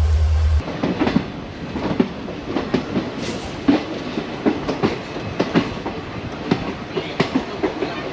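A loud low hum cuts off about half a second in. Then comes a moving passenger train's running sound, with wheels clattering in irregular clicks and knocks over the rail joints.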